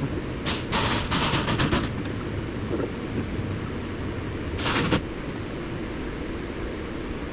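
Impact driver run in two bursts, the first about a second and a half long and the second, about four and a half seconds in, brief. It is running the belly pan bolts back in under the car.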